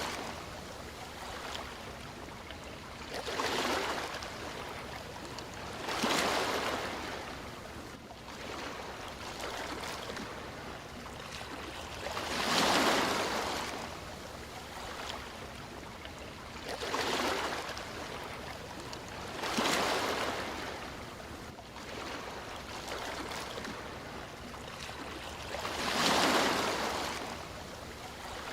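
Sea waves washing onto a shore, a steady wash of surf with a swell rising and falling every few seconds, six times in all.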